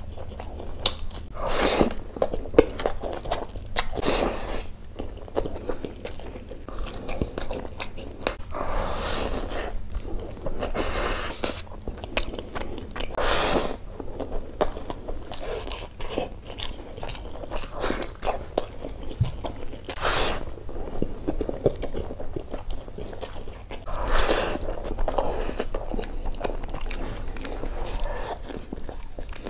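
Close-miked eating sounds of a person chewing a mouthful of curry and rice eaten by hand, with irregular wet chewing noises and crunchy bites.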